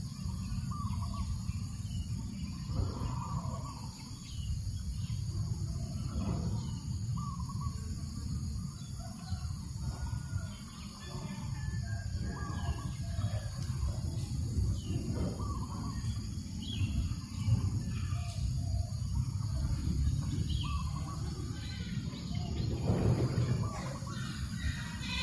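Outdoor farm ambience: small birds chirping in short scattered calls over a steady low rumble of breeze.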